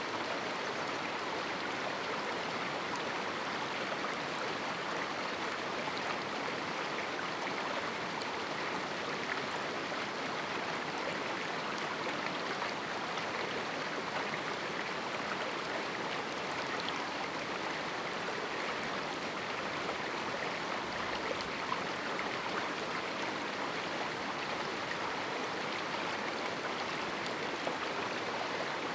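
Mountain river rushing and splashing over rocks in a small canyon: a steady, unbroken water noise with small splashes scattered through it.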